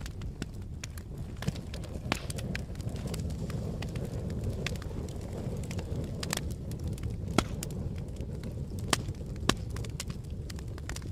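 Campfire burning: a steady low rush of flames with irregular crackles and wood pops, a few sharper, louder snaps scattered through.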